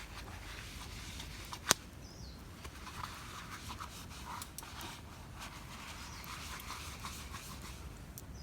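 Open wood campfire crackling, with scattered small ticks and one sharp loud pop about two seconds in. A faint, short, falling bird chirp sounds twice.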